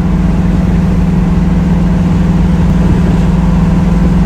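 Chevrolet 5.3-litre LS V8 with a stage 2 cam, swapped into a Monte Carlo SS, running under light throttle at a steady cruise: a loud, even engine drone that holds one pitch throughout.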